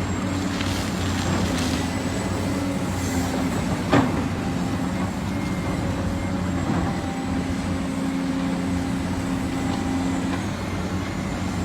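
Heavy construction machine's engine running steadily, with a single sharp knock about four seconds in.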